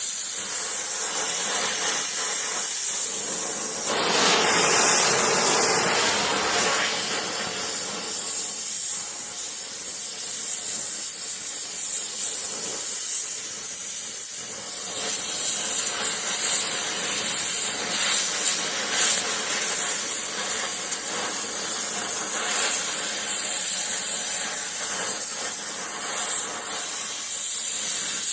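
Gas welding torch flame hissing steadily while welding a cast iron exhaust manifold, with a louder, fuller rush of hiss for a couple of seconds about four seconds in.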